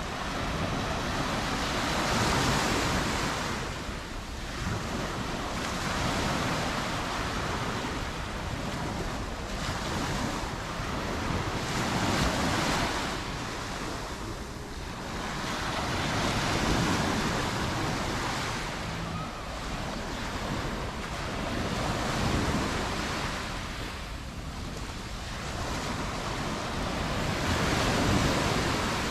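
Mediterranean surf breaking on the beach, a swell of wave noise rising and falling about every four to five seconds.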